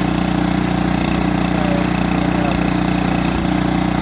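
Engine running steadily at a constant speed, idling with an even, unchanging note.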